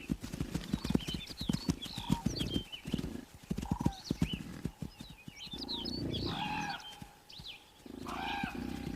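Wood bison bulls fighting in the rut: hooves knocking and thudding on the ground, with deep grunting bellows that come and go, and scattered high chirps.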